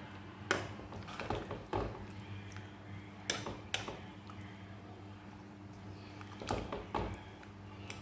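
A metal cooking utensil knocking and clinking against a cooking pot, several separate knocks a second or more apart, over a steady low hum.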